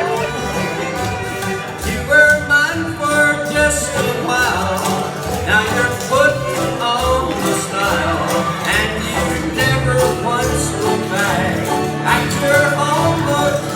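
Live bluegrass-style band music playing steadily, with a melody line that bends in pitch.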